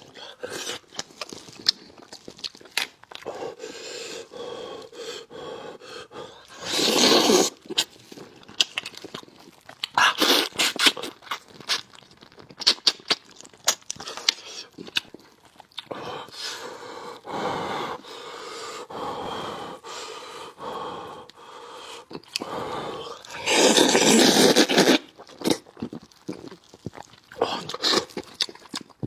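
Close-miked eating of braised fish head: wet chewing, lip smacks and many sharp clicks. Louder slurps break in about 7 and 10 seconds in, and a longer one comes near the end.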